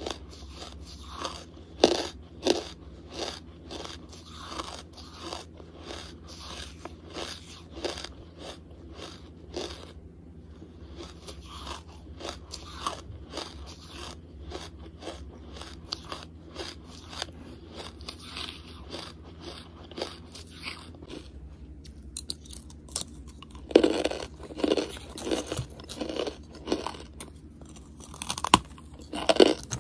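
Close-miked chewing of hard charcoal: a steady run of crisp crunches, about two or three a second. Near the end come louder, sharper crunches as a fresh piece is bitten off.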